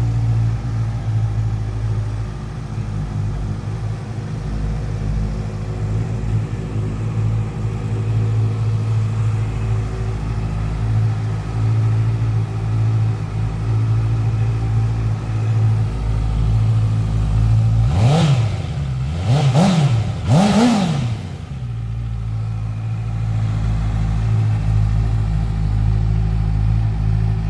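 Honda CBR650F inline-four engine idling steadily, then three quick throttle blips about two-thirds of the way through, each revving up and dropping back, the third the highest, before settling back to idle.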